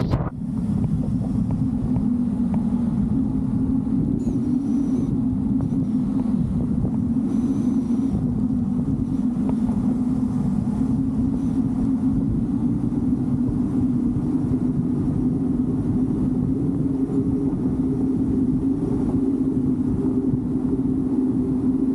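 A moving vehicle's steady drone: engine and road rumble with a constant low hum that shifts a little in pitch.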